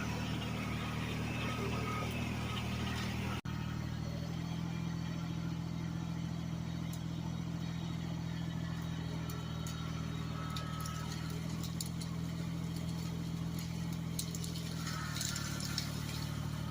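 Truck engine idling steadily, heard from inside the cab, a low even hum with no change in pitch.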